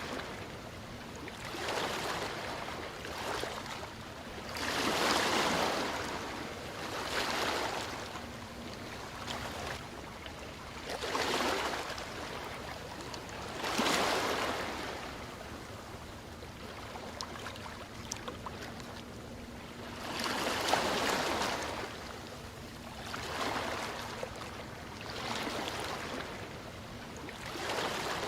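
Ocean waves washing onto a shore, each wave a swell of surf hiss that rises and fades every two to three seconds, a few of them louder.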